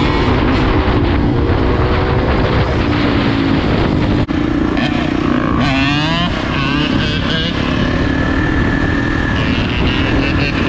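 Dirt bike engine running and revving, its pitch rising and falling, with a quick sweep up and down about six seconds in.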